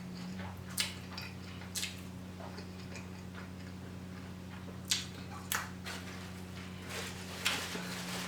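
Close-miked mouth sounds of eating a sloppy chili cheese burger: chewing with a handful of sharp, wet lip-smacking clicks spaced a second or more apart.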